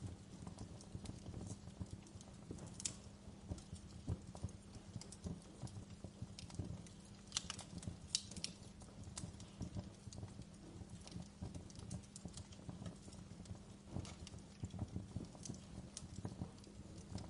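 Wood fire crackling in a fireplace: a low steady rumble of burning with frequent irregular pops and snaps, the sharpest about three seconds in and twice around seven to eight seconds in.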